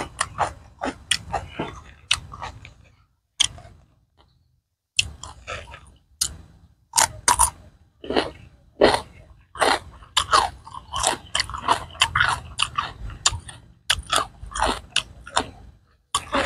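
Close-up crunching and chewing of a crisp raw green vegetable in quick crisp bites. About two and a half seconds in it pauses for a couple of seconds, then picks up again as steady crunchy chewing.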